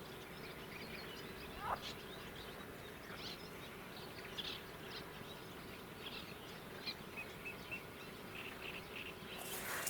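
Wild birds calling with scattered short chirps and one rising call, over a steady faint hum of insects. A hiss comes in near the end.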